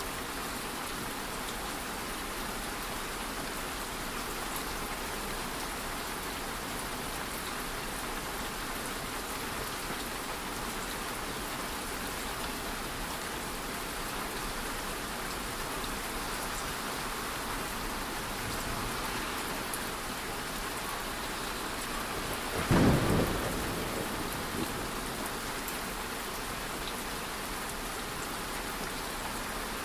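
Steady rain falling, with one rumble of thunder a little over two-thirds of the way through that swells suddenly and fades over a couple of seconds.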